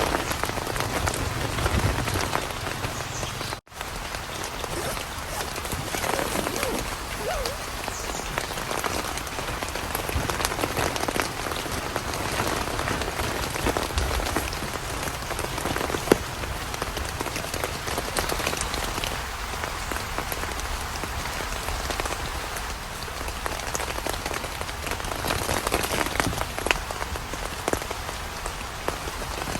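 Steady rain falling, with many separate drop hits over a continuous hiss. It breaks off for a split second near the four-second mark.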